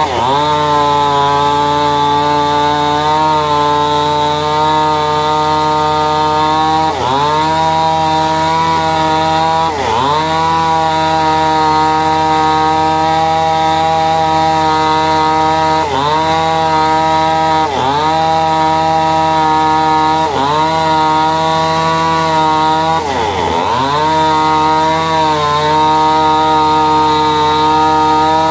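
A sawmill's powered saw running at a steady pitch, dipping sharply and recovering about eight times as it takes load in the timber.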